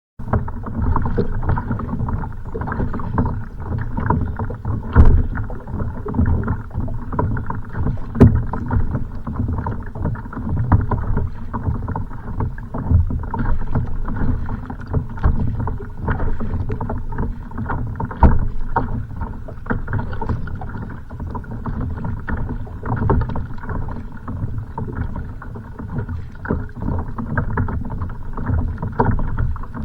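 Choppy, wind-driven waves slapping and knocking against a kayak's hull, with wind buffeting the microphone: a constant rushing sound with frequent knocks and a few sharper thumps about five, eight and eighteen seconds in.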